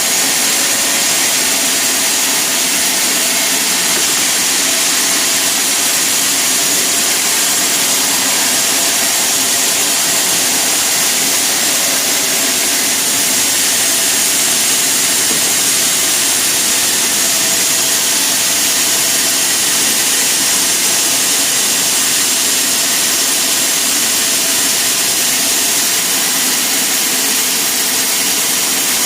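Sawmill saw machinery running steadily: a loud, even hiss with a faint steady hum under it, unbroken throughout.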